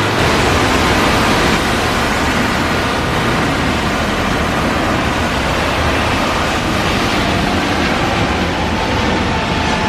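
Jet airliner's engines, a loud steady rush of noise, with a faint whine creeping up slightly in pitch in the last few seconds.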